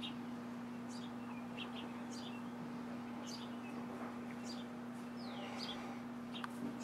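House sparrows chirping: short, high chirps repeated irregularly, about one or two a second, including one short falling note a little after five seconds in. A steady low hum runs underneath.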